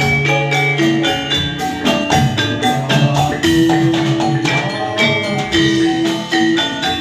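Javanese gamelan music for a jathilan dance, amplified through a sound system. Bronze metallophones ring in overlapping held notes over a fast run of sharp drum strokes.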